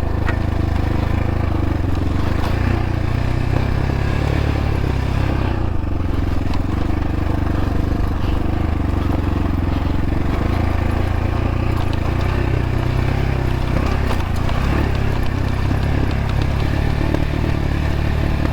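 Xpro Templar X dirt bike engine running steadily while the bike rolls down a steep rocky slope, with clattering and scraping from the tyres and bike over the rocks.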